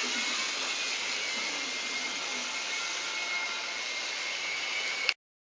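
Small electric motor of an N-gauge model railcar running, a steady high-pitched whir with a hiss and a thin whine and no low rumble. It cuts off suddenly about five seconds in.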